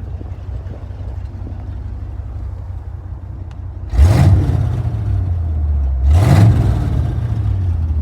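Ford Bronco's engine idling through open electric exhaust cutouts, with Hooker headers and Flowmaster 50 series Delta Flow mufflers, then blipped twice, about four and six seconds in, the exhaust note rising sharply and falling back each time.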